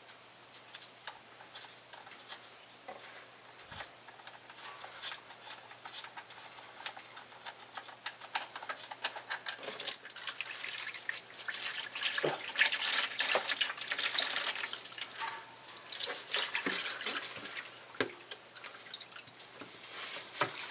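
Engine oil draining from the truck's oil pan and splashing into a drain pan, unevenly, with small metal clinks. It is busiest in the middle of the stretch.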